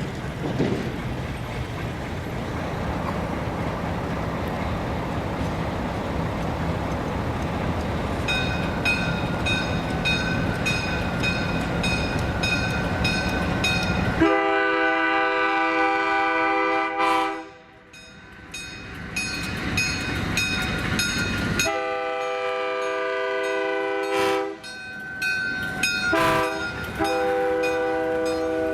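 Alco six-axle diesel locomotive approaching with a steady rumble. About eight seconds in a bell starts ringing at an even rate. From about halfway through, the locomotive's multi-chime air horn sounds a series of long and short blasts.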